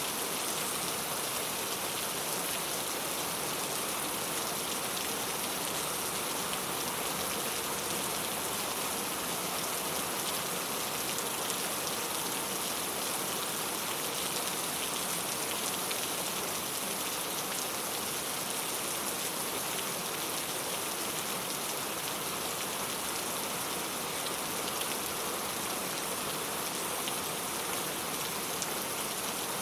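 Steady rain drumming on a clay-tile roof: a dense, even patter of drops that keeps up without a break.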